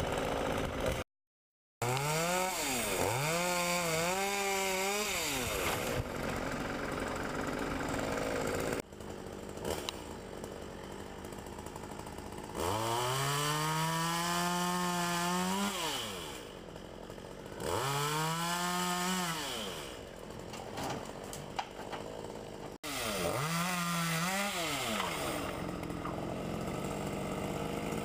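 Chainsaw engine revving up to full throttle and dropping back to idle, about five times over, as it cuts tree branches. There is a brief dropout just after the start.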